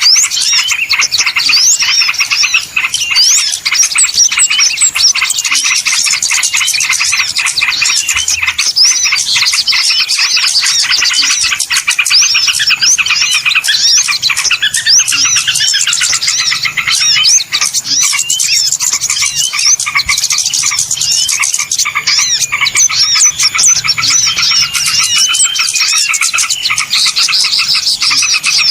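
A dense, continuous chorus of small birds chirping and twittering, with rapid high notes and short rising-and-falling whistles packed closely together: a small-bird lure call used to draw birds in for trapping.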